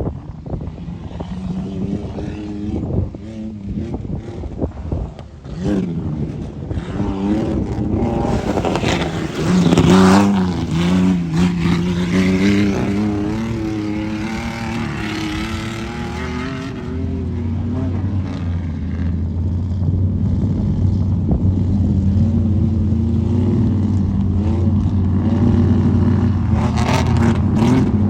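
Truck engine revving hard, its pitch rising and falling over several seconds, loudest about ten seconds in. It then settles into a steadier low drone.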